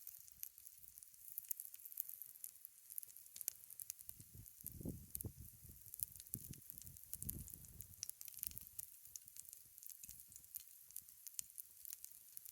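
Campfire crackling faintly with scattered sharp pops, with a few low rumbles in the middle.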